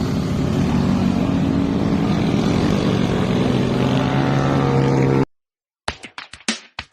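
Motorcycle engine running at a steady speed under way, with wind rushing over the microphone. It cuts off abruptly about five seconds in, and short choppy bursts of music begin near the end.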